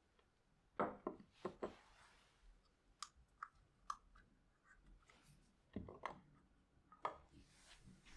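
Faint, scattered clicks and light knocks of objects being handled: a quick cluster about a second in, a few single ticks around three to four seconds, and another cluster near six to seven seconds.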